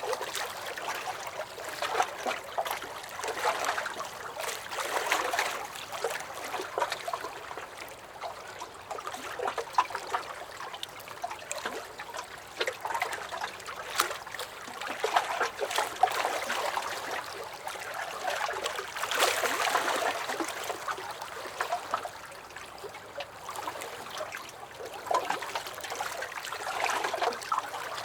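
Small lake waves lapping against a wooden dock: irregular wet slaps and trickling splashes that swell and ease every second or two.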